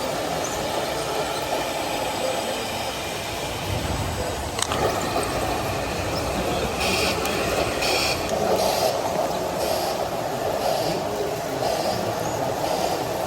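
Radio-controlled model construction vehicles running: a steady whirr of small electric motors and gearing. There is a sharp click about four and a half seconds in, then a series of short, higher-pitched bursts through the second half.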